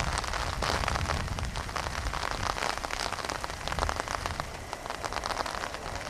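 Heavy rain pelting a car, with a dense patter of many sharp individual drop hits over a low rumble.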